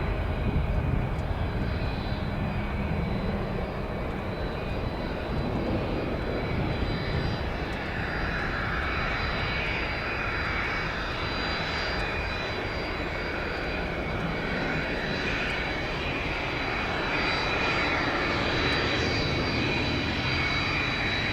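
Airbus A330-200 twin-jet airliner's engines on short final and landing: a steady jet rumble with a thin high whine over it.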